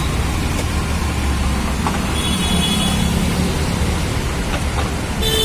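Street traffic: a steady low engine rumble with road noise, broken by a brief high horn toot about two seconds in and another short toot near the end.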